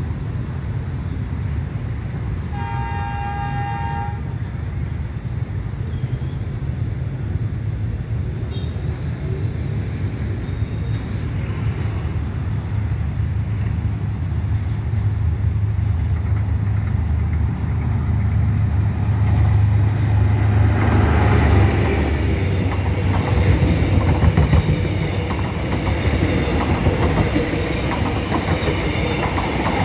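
D19E diesel-electric locomotive hauling a passenger train: its engine drone grows slowly louder as it approaches, with one short horn blast about three seconds in. From about twenty seconds in the train passes close by, and the rumble and clatter of the carriages' wheels on the rails takes over.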